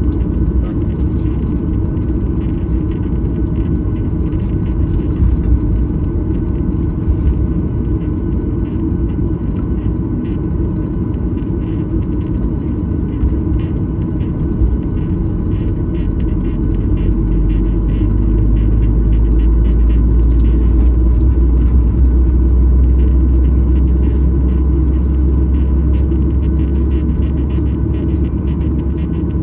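Cabin noise inside a Boeing 737-900ER taxiing: a steady deep rumble of the CFM56 engines and the rolling wheels. A heavier low rumble swells from about halfway through and eases near the end.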